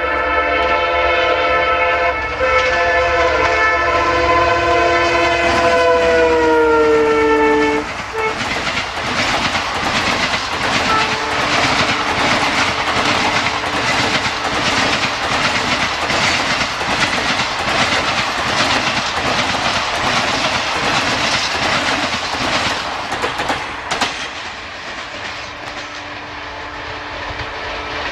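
WDP4 EMD diesel locomotive sounding its multi-note air horn non-stop as it comes through at speed, the horn chord dropping in pitch as it passes about eight seconds in. Then the express's coaches rush past with rapid clickety-clack of wheels over rail joints, easing slightly near the end.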